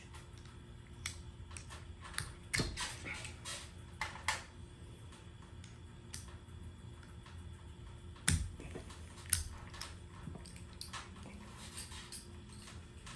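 Hardware and tools being handled: scattered clicks and knocks, with a few louder clunks about two and a half, eight and nine seconds in, over a faint steady hum.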